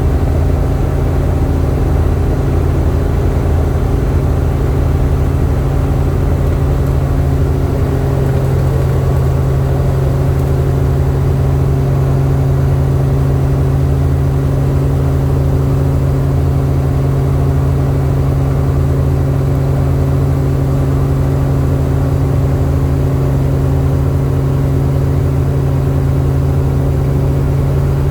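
Helicopter engine and rotor noise: a loud, steady drone with a constant low hum that does not change in pitch.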